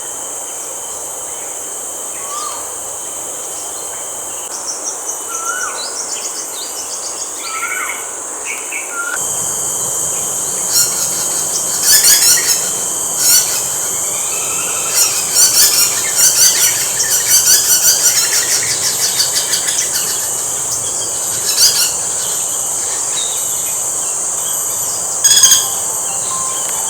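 A steady, high-pitched insect chorus with birds calling over it. Short slurred whistles come first, then after a shift in the background come bursts of rapid high chirps and trills.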